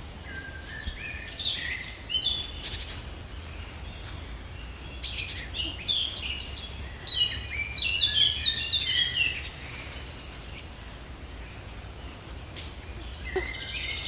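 Wild birds singing: runs of short whistled notes stepping down in pitch, coming in two spells, over a faint steady low rumble.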